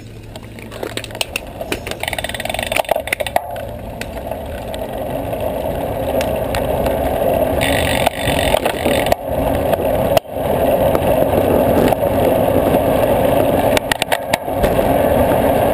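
Wind rushing over the microphone and tyre noise on pavement from a road bicycle getting under way, growing steadily louder as it gathers speed, with scattered clicks and knocks.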